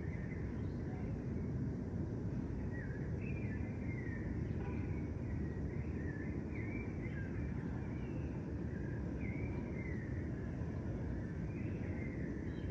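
Birds chirping with short, quick sliding notes, repeated again and again, over a steady low rumble of background noise.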